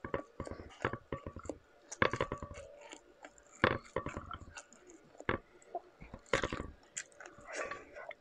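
A person chewing a mouthful of shrimp and rice, with many short, irregular mouth clicks and smacks.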